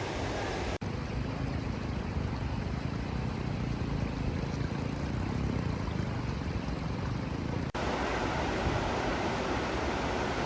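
Steady rush of the Sompamit waterfall's water on the Mekong, broken by two momentary dropouts, about a second in and near the eighth second.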